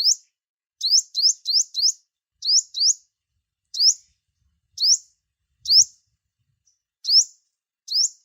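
Sunbird calling: short, high, sharply rising chip notes repeated at irregular intervals, sometimes two or three in quick succession, about a dozen in all.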